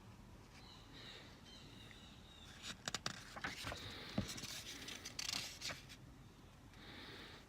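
Paper catalog pages being handled and turned: faint rustling and a few light clicks and taps, most of them in the middle of the stretch.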